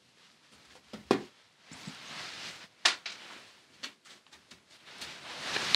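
A few sharp clicks and knocks, two of them clearly louder, with rustling in between and a longer rustle near the end: objects being handled and set down.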